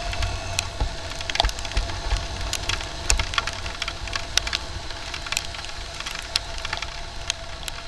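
Riding a motorcycle in the rain: a low wind rumble on the microphone under many irregular sharp crackling taps of raindrops hitting the microphone, with a faint steady whine.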